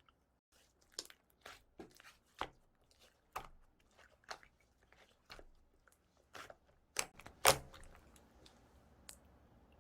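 Clay slime being kneaded and mixed by hand: sticky squishes with sharp clicks and pops about once or twice a second, the loudest pair about three quarters of the way through.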